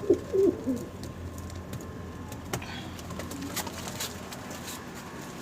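Domestic pigeon cooing briefly, a few short low calls in the first second, followed by faint scattered clicks and taps from the coop.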